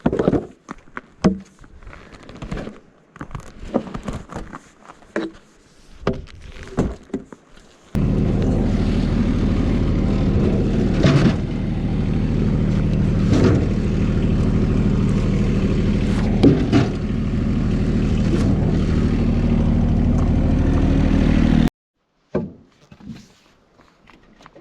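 Scattered knocks and handling clatter, then a small engine running steadily at low revs for about fourteen seconds with a few knocks over it, starting and cutting off abruptly.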